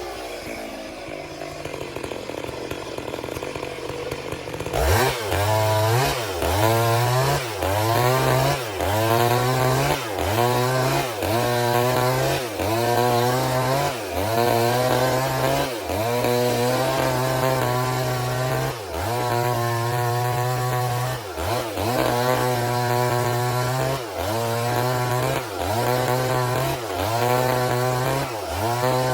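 Stihl MS 382 two-stroke chainsaw ripping a log lengthwise in a milling cut. It runs steadily for the first few seconds, then from about five seconds in its engine pitch dips and recovers roughly once a second as the bar is worked through the wood.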